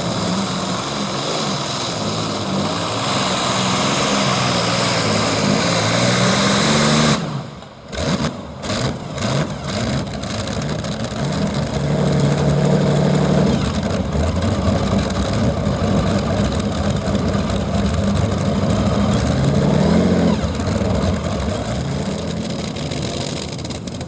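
Modified pulling tractor's engines at full power, revving hard as it drags the weight-transfer sled down the track. The sound drops out in several short gaps about seven to ten seconds in, then runs on loud.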